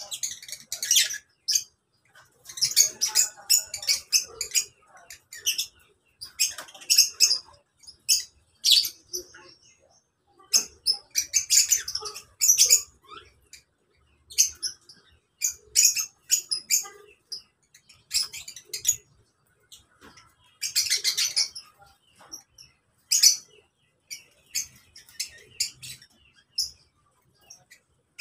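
A flock of lovebirds chattering in short bursts of rapid, high-pitched, shrill chirps, with brief pauses between bursts.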